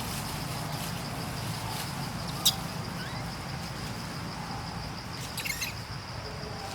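Outdoor forest ambience: a steady high insect drone, with one sharp high squeak about two and a half seconds in and a quick run of high chirping squeaks near the end.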